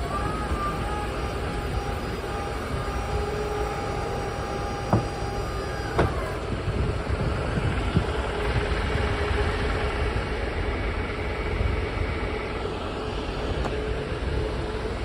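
Refrigerated truck running with a steady low rumble and a constant mechanical whine, with a few sharp clicks about five, six and eight seconds in.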